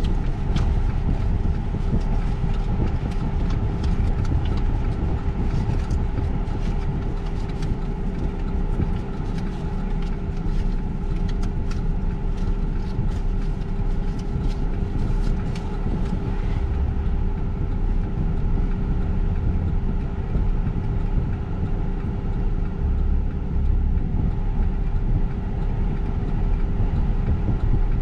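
Steady low rumble heard inside a stopped car's cabin with the engine idling, as a BNSF double-stack container freight train rolls through the grade crossing ahead. Faint light clicks come and go for roughly the first half.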